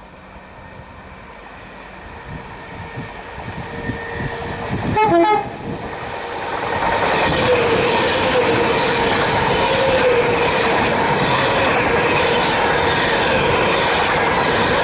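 Class 390 Pendolino electric train approaching and passing at speed. It sounds a short horn blast about five seconds in, then the carriages pass close by with a steady loud rush of wheels on rail and air, with a faint regular beat as the bogies go by.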